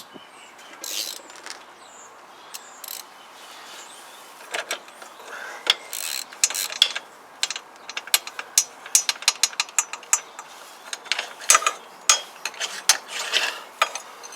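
Socket ratchet clicking in quick, uneven runs as an engine mounting bolt is undone; the clicking starts a few seconds in and goes on in bursts.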